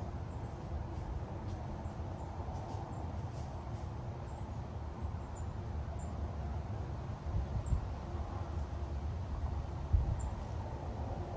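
Wind blowing through trees in gusts, with a low rumble of wind buffeting the microphone. It swells about 7.5 seconds in and again near 10 seconds. A bird gives faint high chirps every second or so.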